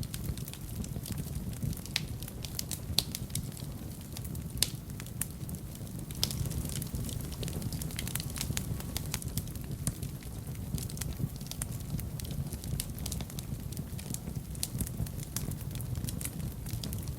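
Wood fire burning in a fireplace: irregular crackling with frequent sharp pops, a few louder than the rest, over a low steady rumble of the flames.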